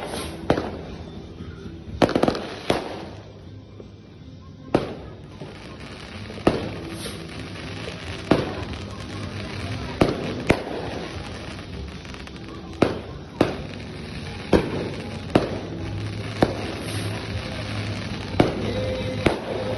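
Consumer fireworks going off: a string of sharp bangs, about one every one to two seconds, typical of a multi-shot fireworks cake firing its shots in sequence.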